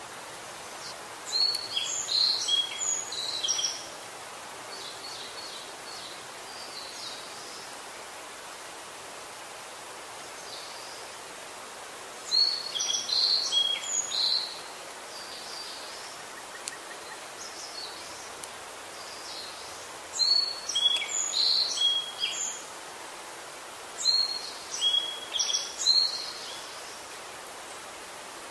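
A songbird singing four bursts of quick, varied chirping notes, each lasting two to three seconds, over a steady hiss.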